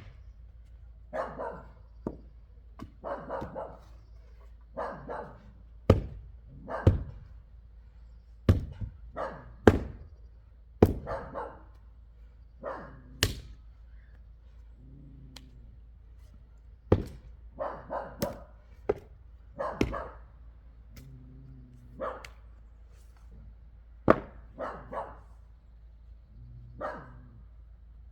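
Wood being chopped, sharp knocks every second or few, with a dog barking repeatedly between the strikes.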